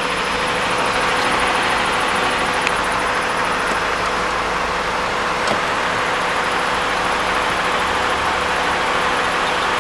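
Car engine running steadily at idle, heard in the engine bay, with a constant whine and a fast, faint high ticking over it; this is the unexplained noise the owner is asking about. Two small clicks come through in the middle.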